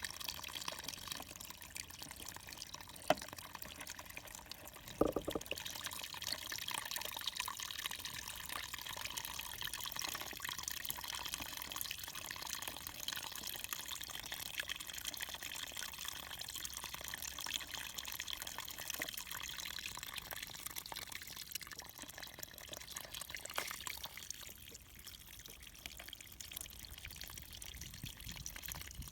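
Steady trickling, dripping water, with a couple of sharp clicks about three and five seconds in.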